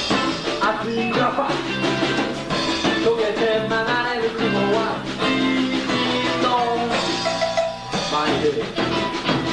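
A live band playing with two electric guitars, bass guitar and drum kit.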